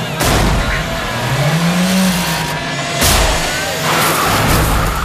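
Old car engine revving up and down three times, with two sharp bangs: one just after the start and one about three seconds in.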